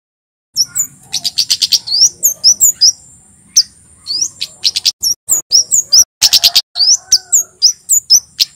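Male Javan flowerpecker (kemade) singing, starting about half a second in: a dense string of sharp, high 'tsit' notes that rise in pitch, broken by quick runs of ticks, over a thin, steady high whistle.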